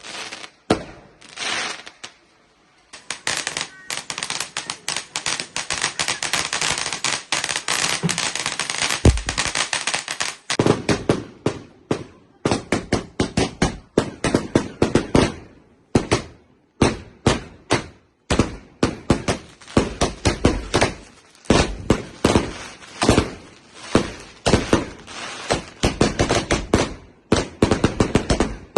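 Fireworks going off: a dense crackling from about three seconds in to about ten seconds, then a long run of separate sharp bangs, several a second.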